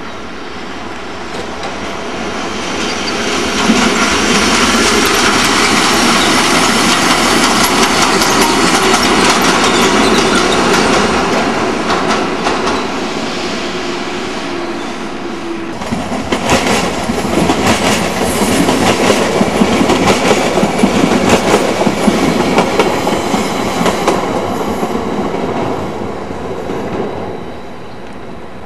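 Trains rolling through station tracks: wheels clacking over rail joints and points. The sound grows louder about three seconds in, eases off around the middle, then returns as a long run of rapid clacks before fading near the end.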